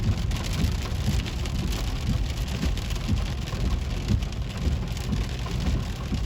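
Heavy rain pelting a moving car's roof and windshield, heard from inside the cabin as a dense patter over a steady low road rumble.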